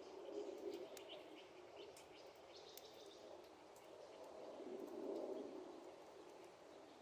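Wood fire crackling faintly with scattered sharp pops, while birds chirp in the background. A low, drawn-out sound swells twice, around the start and again about five seconds in.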